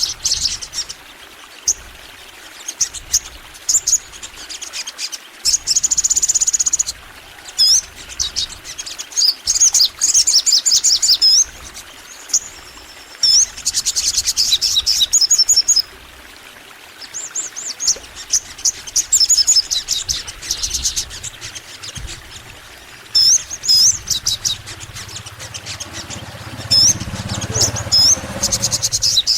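Sogon bird singing long, energetic phrases: bursts of high, rapid chirps and trills with sharp hooked notes, each lasting a second or two, with short pauses between them. A low rumble sits under the song near the end.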